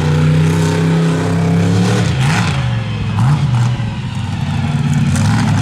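Monster truck engine running at high revs: held steady for about two seconds, briefly let off and pushed back up twice, then held high again.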